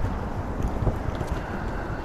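Wind buffeting the microphone during a bike ride: a low, uneven rumble that swells in small gusts, with a few faint ticks.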